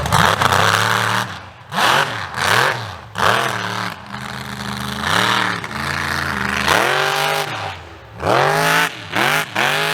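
Mega mud truck's big engine revved hard in a rapid series of surges, its pitch climbing and dropping again and again.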